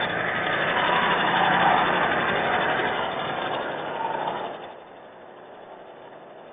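Motor vehicle noise with a steady hiss, loud at first, then dropping away sharply about four and a half seconds in.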